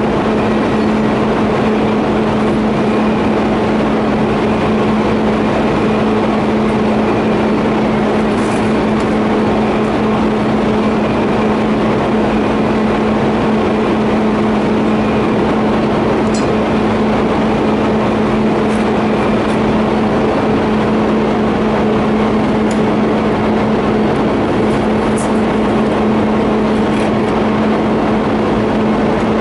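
TIG welding on steel pipe fittings: a steady electric buzz with a hiss under it, running without a break, with a few faint ticks.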